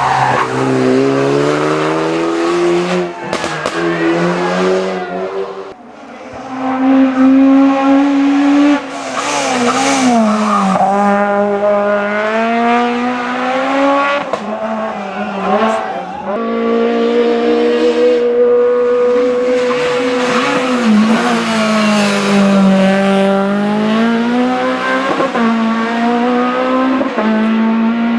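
Hill-climb race car engine revving hard, its pitch repeatedly climbing and then dropping through gear changes and braking.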